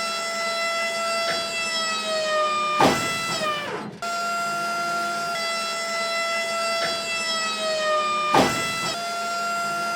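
A steady electronic tone with many overtones that slides down in pitch and ends in a sharp downward swoop. The same pattern repeats about every five and a half seconds, as a looped track does.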